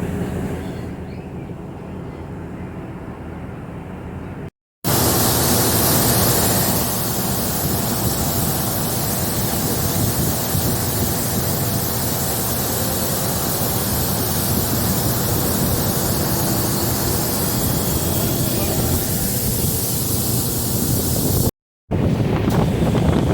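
A DEMU train running, with rumble from the train and wind buffeting the microphone. For the first four seconds or so it is a quieter low rumble. After a brief dropout it becomes a louder, even rush of wind and running noise with a lot of hiss, which lasts until another brief dropout near the end.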